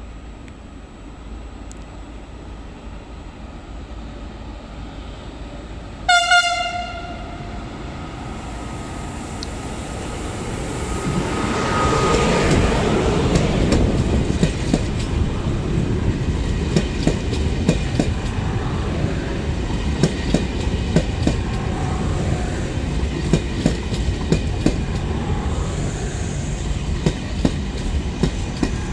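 ÖBB Railjet passenger train giving one short horn blast as it approaches, then running past. A rising rush builds as the front draws level, followed by a steady clatter of the coaches' wheels over the rail joints.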